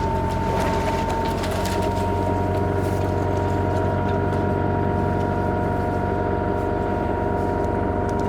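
Kubota KX121-3 mini excavator's diesel engine running steadily under operation, with a steady high-pitched whine over the engine note.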